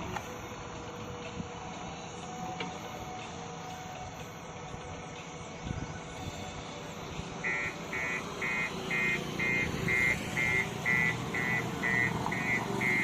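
A construction machine's engine running steadily. About halfway through, an electronic warning beeper starts up with a quick, even beep, roughly two to three beeps a second.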